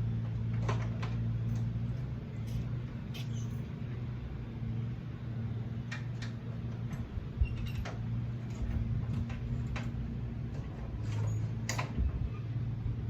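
A steady low machine drone from other work going on nearby, with scattered sharp clicks and knocks over it.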